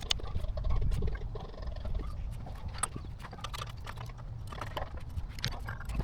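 Irregular light knocks and clicks, a few a second, over a steady low rumble.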